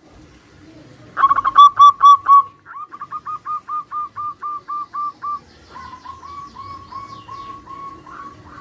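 Zebra doves cooing. A loud burst of short staccato notes starts about a second in, followed by a long, even run of rapid coos at about four or five a second. A second, quieter run of coos comes near the end.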